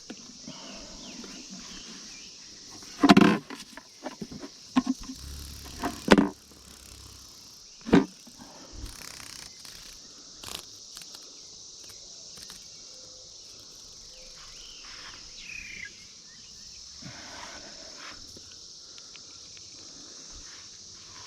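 Steady high-pitched drone of a periodical cicada chorus, with a few loud knocks and handling noises about three, six and eight seconds in.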